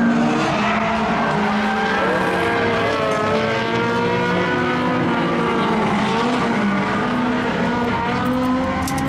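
Several race car engines running hard, their overlapping notes rising and falling with the revs.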